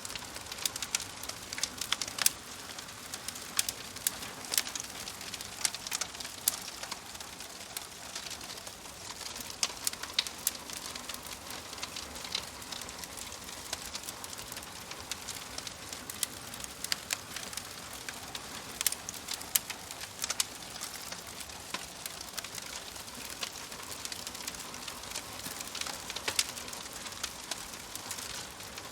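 Wood fire burning in a fireplace: a steady hiss of flames with frequent sharp, irregular crackles and pops from the logs.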